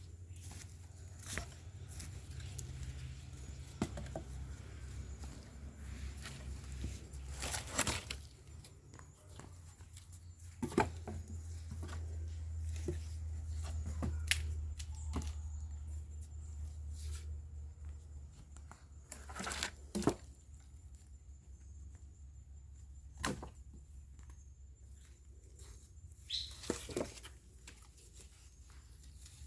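Dry branches and brush being handled and laid on a bonfire pile: scattered snaps, rustles and knocks, over a steady low rumble.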